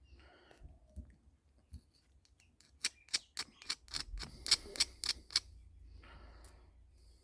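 A hand tool working on the copper windings of a microwave-oven transformer: a run of about ten sharp metallic clicks, roughly three a second, with brief scratching before and after.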